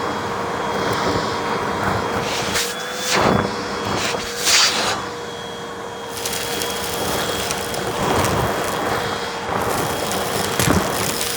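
Vacuum cleaner running with a steady motor whine and rush of air. Several short, louder crackling surges come as it sucks up crunchy debris.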